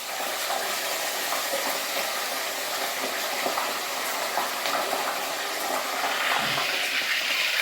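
Parrotfish frying in very hot oil in a pot: a steady sizzle with scattered crackles that grows a little brighter and louder near the end.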